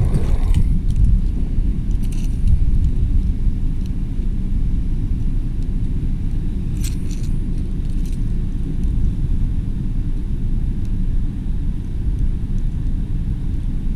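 Steady low rumble of wind buffeting the microphone outdoors, with a few brief clicks and a light jingle, such as keys, about a second in and again around the middle.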